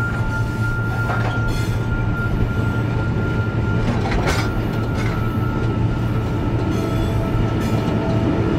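Long, loaded iron-ore train of the Mauritania Railway running steadily, heard from atop a hopper wagon: a heavy rumble and rattle of the wagons, with a few sharp clanks and a thin high whine that fades out about halfway through.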